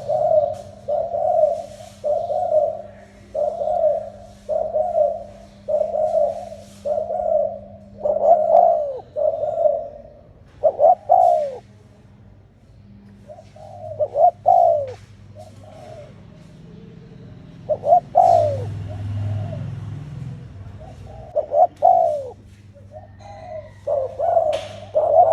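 Spotted dove (cu gáy) giving its rapid cooing, the 'gù' call. It starts with a run of about ten short, evenly spaced coos, breaks into irregular phrases with pauses, then picks up again near the end.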